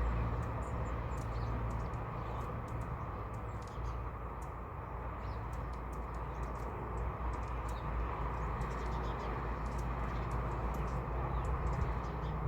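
Small birds chirping: many short, high calls scattered throughout, over a steady rushing background noise.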